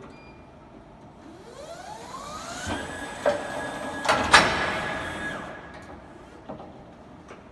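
Electric forklift motor whining up in pitch, holding a steady whine for a few seconds and then winding down, with three sharp clunks in the middle, the last one the loudest.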